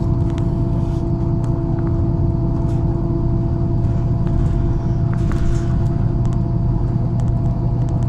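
MAZ-103 city bus engine running steadily, heard from inside the cabin, with a constant hum and small rattles and clicks from the body. A brief hiss about five seconds in.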